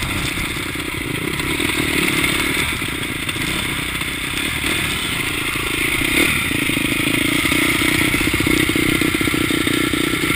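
Dirt bike engine running under way on a trail, with steady rattling and knocking from the rough ground throughout. The engine note dips and picks up again about six seconds in.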